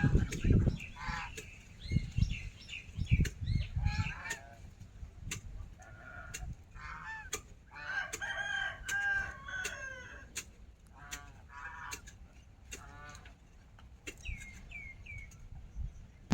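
Chickens clucking and calling, with a rooster crowing in a longer drawn-out call about halfway through, among scattered sharp clicks.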